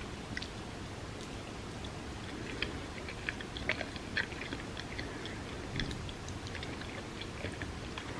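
A person chewing food with the mouth close to the microphone: a run of small clicks and crackles, busiest in the middle.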